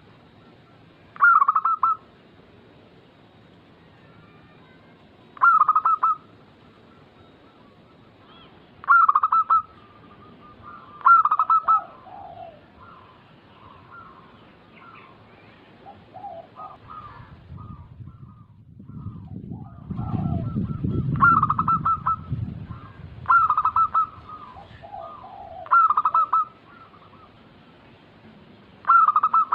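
Zebra dove (perkutut) singing: short bursts of rapid, bubbling coos about every three to four seconds, with softer calls between. A low rumble swells for a few seconds about two-thirds of the way through.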